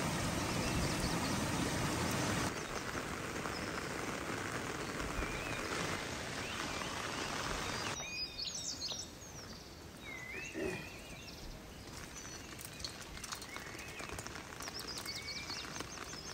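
Outdoor ambience with birds chirping. For the first eight seconds it sits over a steady rushing noise; then the noise drops away suddenly, leaving quieter bird calls and one short, lower animal call about ten seconds in.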